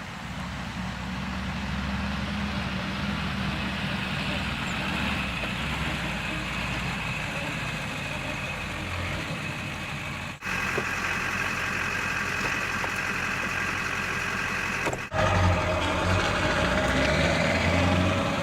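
An engine running steadily, cut off abruptly twice, about ten and fifteen seconds in, and picking straight up again each time.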